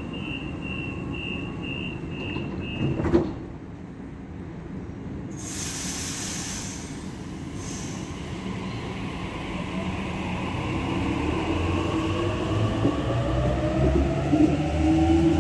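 Door-closing beeps on a Sydney Trains Waratah electric train, ending as the doors shut with a thud about three seconds in. A short burst of air hiss follows, then the traction motors start up with a whine that rises in pitch under a growing rumble as the train pulls away.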